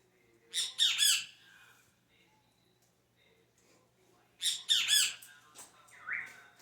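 A bird squawking: two bursts of three or four quick, harsh calls about four seconds apart, then a short rising call near the end.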